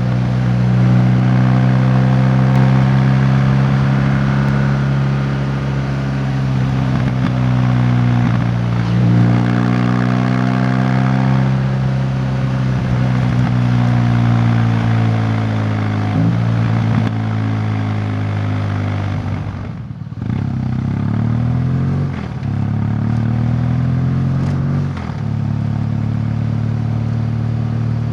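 A vehicle's engine running while under way, its pitch sliding down and climbing back several times as the revs change, over wind and road noise. Near two-thirds of the way through the engine note drops out briefly, then comes back and rises again.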